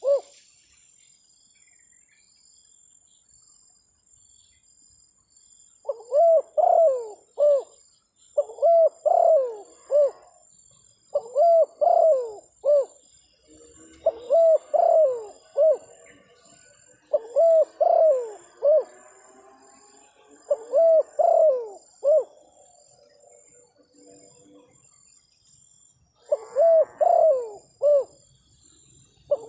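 Spotted dove (terkukur) cooing: about seven phrases of several rounded coo notes each, starting about six seconds in and repeating every two to three seconds with a longer pause near the end. A faint steady high whine and small chirps lie underneath.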